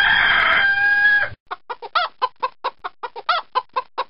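A rooster crowing, the call held and ending abruptly about a second in, followed by a rapid run of short hen clucks, about six a second.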